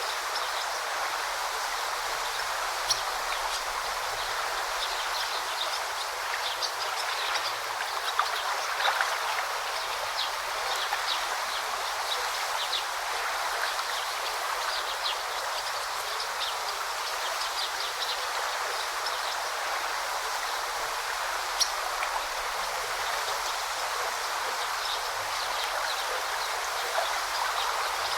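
A river flowing steadily, with small birds chirping in short high notes over it and a few sharper clicks.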